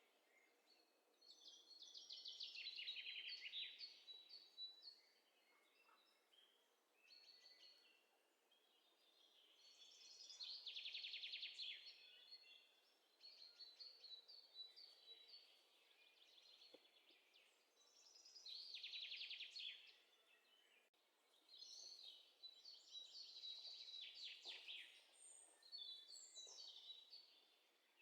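Faint bird calls: high, rapid trills in bouts of about two seconds, three times, then a few shorter chirps near the end.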